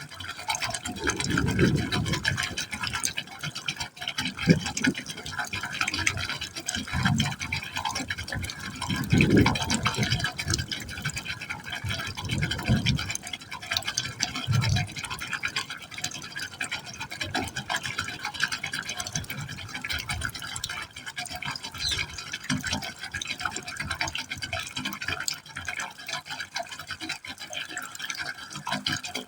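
Water pouring into a pipe hole, splashing steadily, with irregular deep gurgles and glugs, heavier in the first half.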